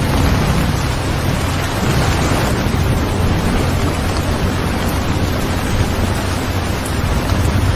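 Steady heavy rain with a deep rumble underneath that swells slightly near the start and again near the end.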